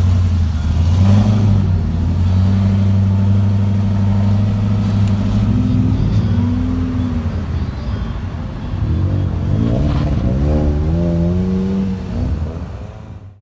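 A vehicle engine running steadily, with the throttle blipped once about halfway through and several quick revs near the end, before the sound drops away.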